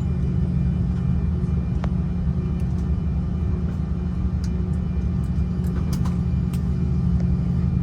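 Steady low rumble and hum inside the cabin of an Airbus A330-300 on the ground before takeoff, with a few faint clicks and rattles.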